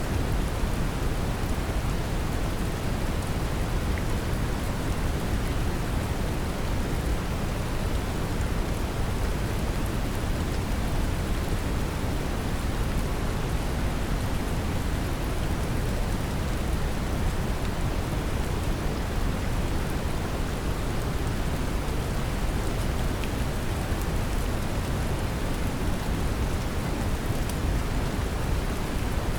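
Steady brown noise, a deep even hiss, mixed with the patter of gentle rain, unchanging throughout.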